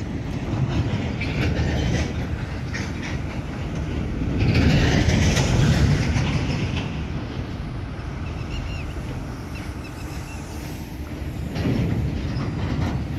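Freight train's wagons rolling past on the rails with a continuous rumble, swelling loudest about four to six seconds in and again near the end.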